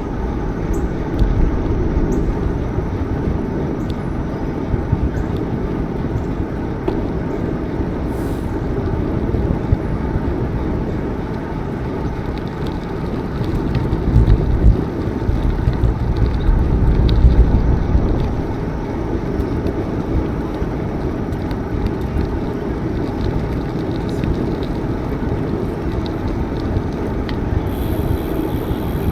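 Wind buffeting the microphone of a bicycle ride recording, mixed with the rolling noise of the bike, as a steady low rumble. It swells to its loudest a little after the middle.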